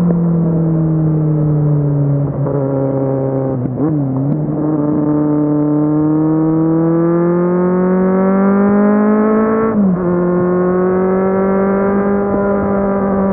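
Kawasaki Z750 inline-four engine under way. The revs fall off for the first few seconds, waver briefly near four seconds, then climb steadily in pitch until an upshift near ten seconds drops them suddenly, after which the engine runs steady.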